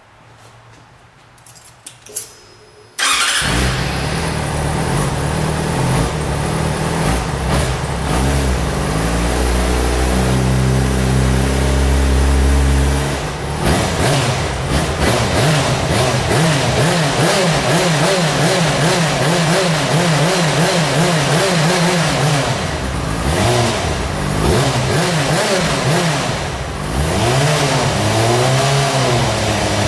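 Yamaha FZ6 motorcycle's inline-four engine heard through its exhaust: a few clicks, then it starts abruptly about three seconds in and runs. The revs climb and hold for several seconds, drop back, then rise and fall through repeated throttle blips.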